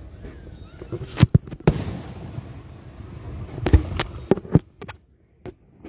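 Fireworks shells bursting in the sky at a display: about eight sharp booms and bangs in two quick clusters. The sound briefly drops out near the end.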